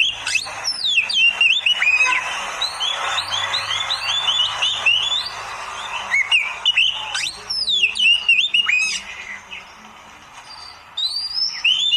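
Oriental magpie-robin (kacer) singing a fast, varied run of sliding whistles and chirps. It pauses about nine seconds in and starts again near the end.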